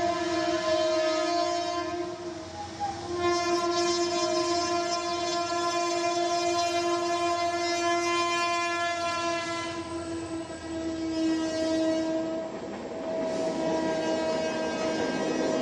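Locomotive horn sounding in long, steady blasts: one blast breaks off about two seconds in, a long blast follows for about seven seconds, and the horn sounds again near the end, over the rumble of the passing train.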